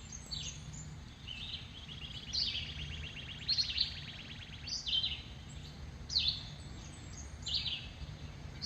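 A songbird singing over and over: quick down-slurred whistled notes roughly once a second, several of them running into a rapid trill lasting about a second, over a steady low hum.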